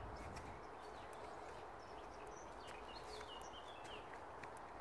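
Faint background ambience with a few short bird chirps a little after the middle.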